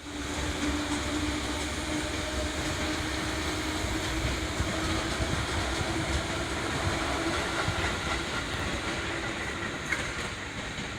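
JR 583-series electric train running on the rails as it arrives, a steady running rumble with a low hum, easing a little near the end.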